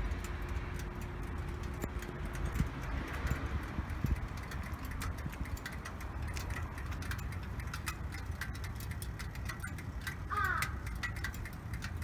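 Harley-Davidson Sportster 883 Iron's fuel-injected V-twin idling through its stock mufflers: a steady low exhaust beat with light ticking over it.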